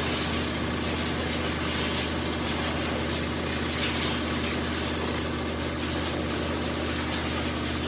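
A machine running steadily, a constant hiss over a low motor hum, unchanging throughout.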